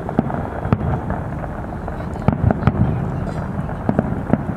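Fireworks display: a rapid, irregular run of sharp bangs and pops of varying loudness over a steady low rumble.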